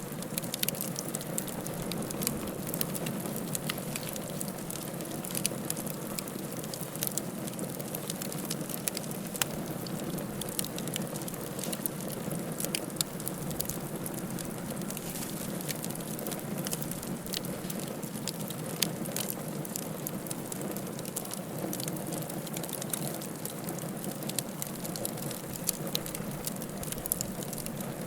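Wood fire burning in a fireplace: a steady low rush with frequent irregular crackles and pops.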